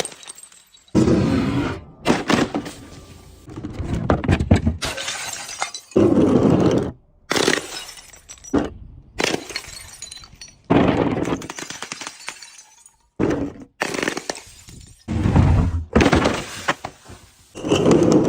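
Crunchy objects and glass being crushed and breaking: a run of short separate bursts of cracking and crunching, about half a dozen, each cutting off abruptly.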